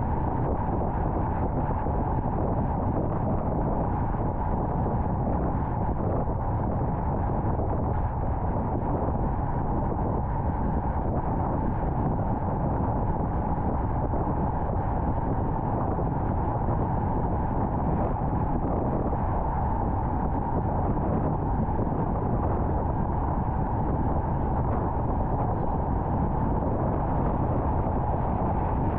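Steady road noise of a car at highway speed, a low, even rumble of tyres and wind with no distinct events.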